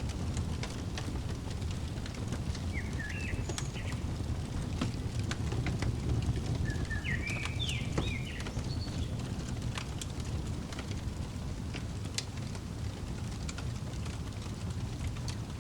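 Crackling wood fire with a steady low rumble and scattered sharp pops. A small songbird chirps in short quick phrases, once about three seconds in and again around seven to nine seconds.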